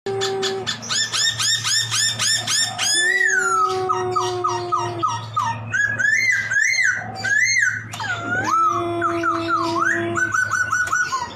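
Poksay laughingthrush singing loudly and continuously. It opens with a fast run of repeated rising notes, then moves into varied whistled phrases, sliding notes and chatter, with a few longer steady low notes among them.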